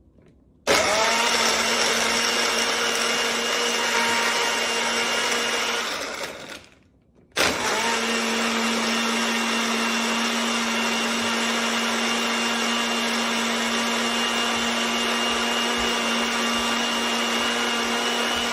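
Greatogo compact personal bullet blender running, blending ice, liquid and protein powder into a shake. It starts about a second in, stops for about a second around six seconds in, then starts again and runs steadily.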